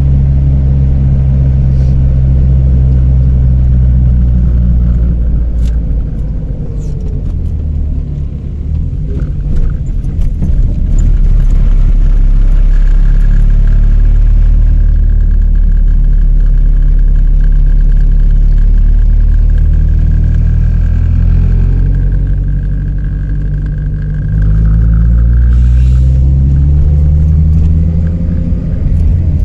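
Chevrolet Celta's four-cylinder engine running loud and rumbly through a straight-pipe exhaust with the muffler removed, as the car is driven. The engine note holds, eases off, then climbs with the revs; near the end it drops at a gear change and climbs again.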